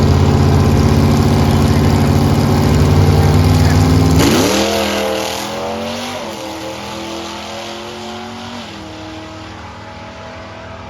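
Car engine held at steady, loud revs. About four seconds in it accelerates hard, the pitch climbing, then dropping back in steps as it shifts gears. It fades as the car pulls away.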